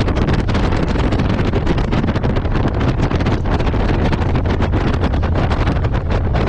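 Wind buffeting the microphone of a moving motorcycle, a loud, steady rumble with the engine and road noise underneath.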